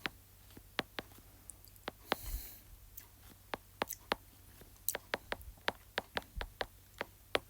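Irregular light taps and clicks, about twenty of them, with a short soft scrape a couple of seconds in: a pen writing out an equation.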